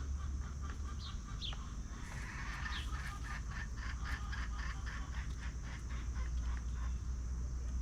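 Chickens clucking: a quick run of short clucks a few seconds long, with two brief high chirps before it and a steady low rumble underneath.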